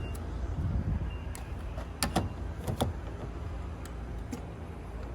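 Steady low vehicle hum, with several sharp clicks about one and a half to three seconds in.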